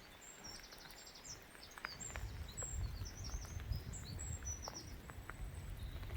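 Small birds chirping and trilling in quick high notes over an uneven low rumble, with a few faint ticks.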